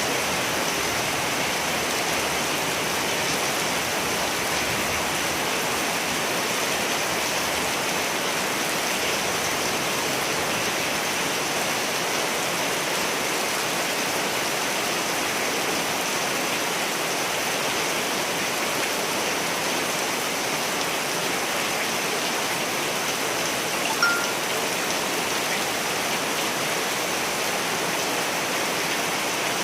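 Steady rain falling, an even hiss with no thunder. One brief, sharp high note about 24 seconds in.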